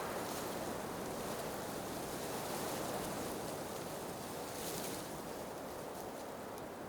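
Blizzard wind blowing in a steady rush that swells and eases, with a brief hissing gust about four and a half seconds in.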